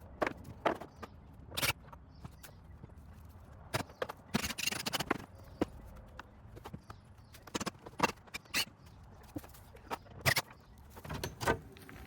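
Irregular sharp knocks and clacks of wooden boards being handled and set against each other, with a brief rough scraping stretch about four and a half seconds in.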